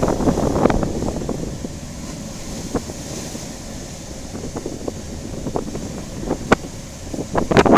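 Typhoon wind buffeting the microphone in a low rumble that is strongest at the start and eases off, with scattered sharp knocks and a louder cluster of them near the end.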